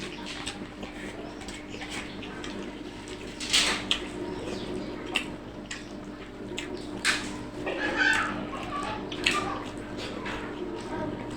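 Close-up eating sounds: wet chewing and mouth smacks, with a few louder smacks scattered through, over a faint steady hum.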